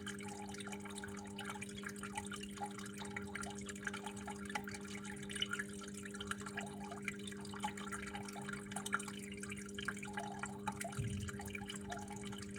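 Water flowing and trickling, with many small irregular drips and splashes, over a steady low hum.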